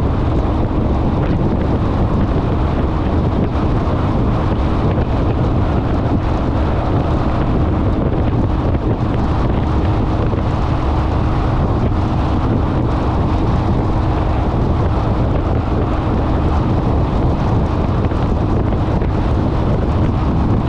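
Steady wind rushing and buffeting over the microphone of a motorcycle riding at road speed, with the bike's running noise underneath.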